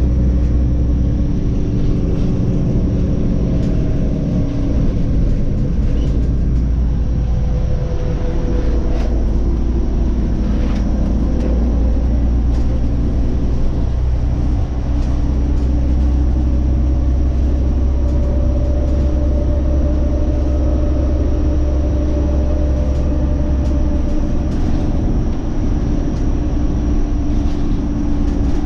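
Scania OmniCity city bus driving, heard from inside: a steady low engine drone whose pitch shifts a few times as the engine speeds up and eases off, with scattered light clicks and rattles.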